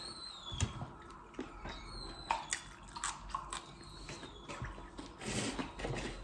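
Close-up eating sounds: wet chewing and mouth clicks, with scattered sharp clicks and a short noisy burst about five seconds in.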